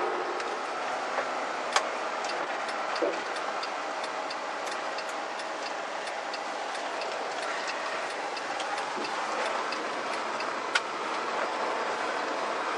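Car driving on a gravel road, heard from inside: steady road noise with small stones ticking against the underbody at an irregular rate, and two sharper clicks about 2 and 11 seconds in.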